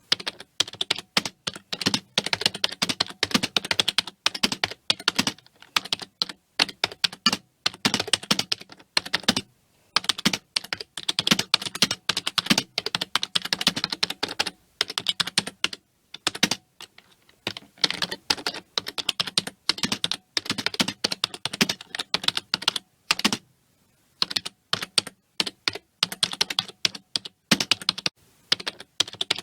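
Continuous fast typing on a computer keyboard: rapid key clicks in runs of several seconds, broken by brief pauses.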